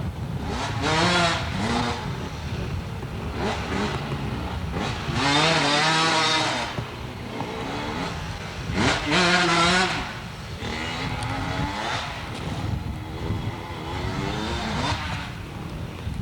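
Dirt bike engines revving in about six surges, the pitch climbing and dropping with each burst of throttle.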